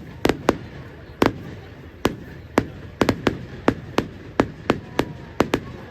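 Fireworks going off: a rapid, irregular string of sharp bangs, often two or three a second.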